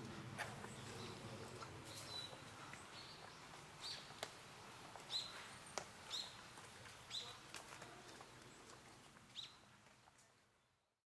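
Faint outdoor ambience with a bird giving short, high chirps about once a second, and a few soft clicks; it all fades out near the end.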